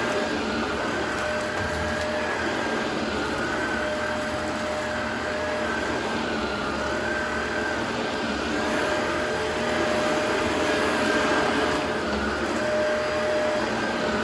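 Vacuum cleaner running steadily, a motor whine that wavers slightly in pitch over a steady rush of air, a little louder from about ten seconds in.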